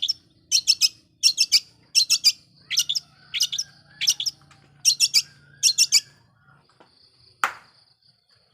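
Long-tailed shrike (cendet) giving harsh, rapid chattering calls, one short burst roughly every 0.7 s. The bursts stop about six seconds in, followed by a single sharp note that sweeps downward.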